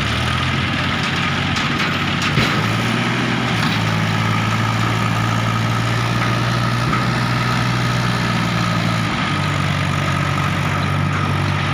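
Tractor diesel engine running steadily, its note shifting twice, with a single knock about two seconds in.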